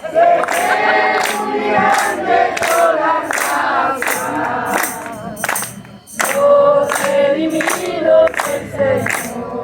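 A group of voices singing a Spanish Christian worship chorus together, with a sharp steady beat about twice a second. The singing drops away briefly about six seconds in.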